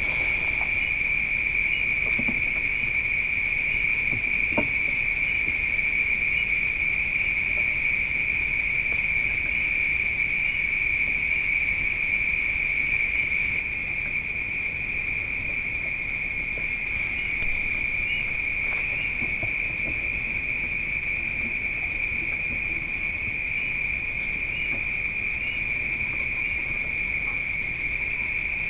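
Night insects, crickets, trilling in a continuous high-pitched chorus at two steady pitches, dropping slightly in level about halfway through.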